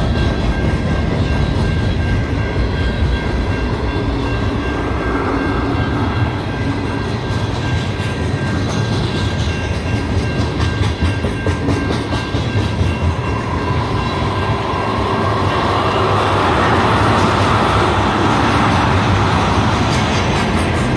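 CN freight train's cars rolling past on the main line: a steady, loud rumble and rattle of wheels on rail, with some clattering over the joints. It swells slightly louder about three quarters of the way through.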